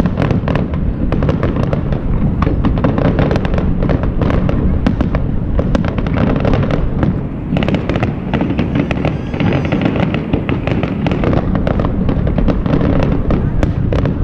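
Fireworks display: a dense, continuous run of bangs and crackles from many shells bursting in quick succession, easing briefly about halfway through.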